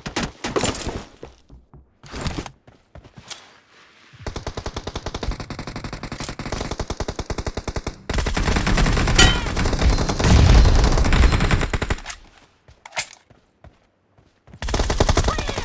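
Video game automatic gunfire: a few separate shots, then long bursts of rapid fire from about four seconds in, heavier and louder from about eight seconds to twelve, and another short burst near the end.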